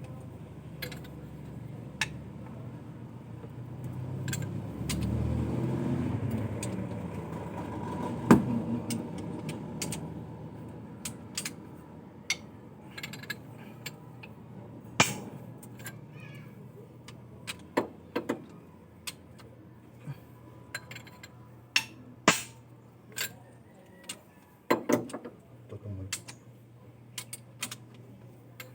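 An engine running with a low steady hum that swells and rises in pitch once, as if briefly revved, about four to nine seconds in. Sharp metallic clinks and knocks, like hand tools on metal, come scattered throughout.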